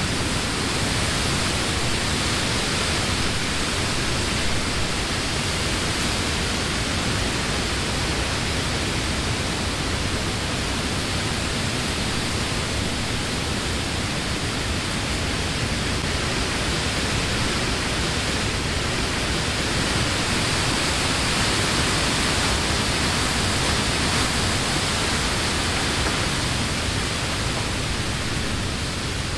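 Wind blowing steadily through the leaves of trees, a constant rushing hiss that swells a little around two-thirds of the way in.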